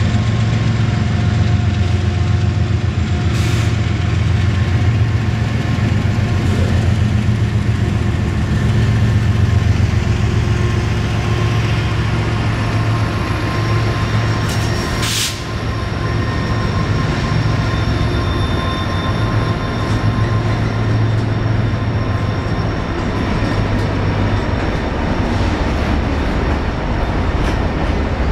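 CSX freight train's cars rolling past, a steady low rumble of steel wheels on rail with faint thin squealing tones above it. A single sharp clank about halfway through.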